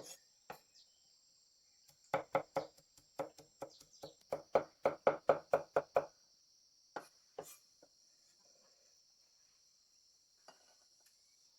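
Knife chopping on a cutting board: a quick run of strokes, about four or five a second, then a few scattered chops. Crickets trill steadily behind.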